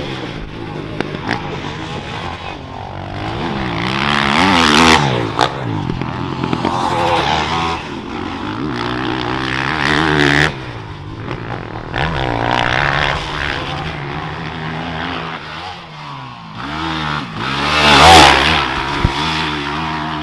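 Dirt bike engines revving up and down as they ride, pitch rising and falling with the throttle, with louder swells about five and ten seconds in and the loudest about eighteen seconds in.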